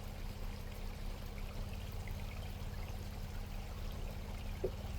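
Ford Bronco's engine running low and steady as the truck creeps forward over rocks at crawling speed, with a steady rushing noise over it.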